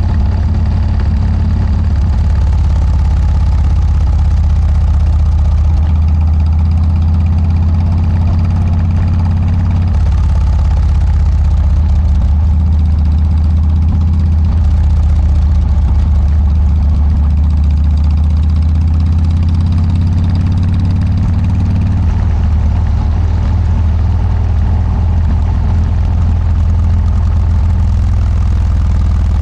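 Harley-Davidson Dyna V-twin engine running through Motorstage aftermarket mufflers, a steady, deep exhaust note whose pitch drifts only slightly.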